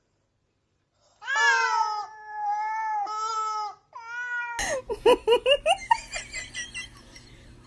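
A cat yowling in a long, drawn-out call, then a shorter one. About halfway through, a rapid run of short, rising cat cries over a low steady hum, fading toward the end.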